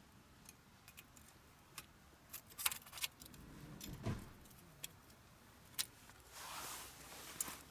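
Scattered light metallic clinks and clicks from something being handled, with a dull knock about four seconds in and a short rustle near the end.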